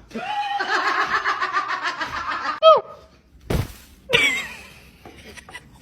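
A person laughing in quick, rapid pulses for a couple of seconds, ending in a short falling cry. A single thump comes about halfway through, then a brief vocal sound.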